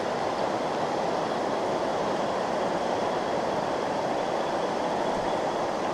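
Steady rushing of a small trout stream's water flowing over rocks, an even hiss that holds at one level.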